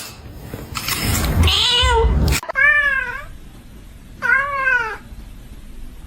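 A house cat meowing: drawn-out meows, each rising and then falling in pitch, three in a row about a second and a half apart. The first comes over a loud rustling noise that cuts off suddenly about two and a half seconds in.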